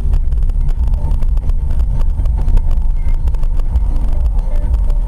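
Steady, loud low rumble of a car, as a dash camera's microphone picks it up.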